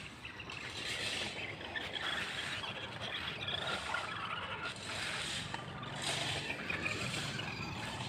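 Toy monster truck driving over rough ground: a rough, hissing rolling noise from its motor and wheels that rises and falls unevenly.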